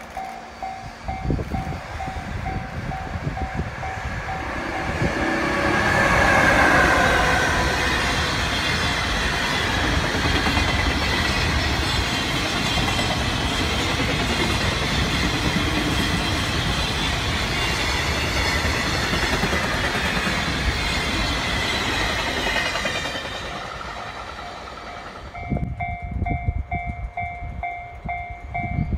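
A JR freight train hauled by an EF66 electric locomotive approaches and passes close by. It is loudest as the locomotive goes by, and then a long rake of container wagons rumbles and clacks over the rail joints for about fifteen seconds. A level-crossing warning bell beats steadily at the start and rings again near the end, as the next freight train's EF510 locomotive approaches.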